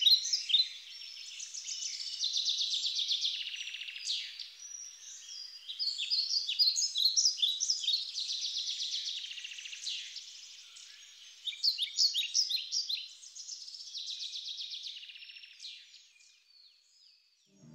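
Birdsong: several songbirds singing at once with quick chirps and rapid trills, fading out near the end.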